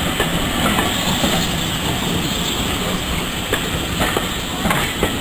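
Heritage railway train running along the track: a steady rumble with scattered clicks and clacks of wheels over the rails.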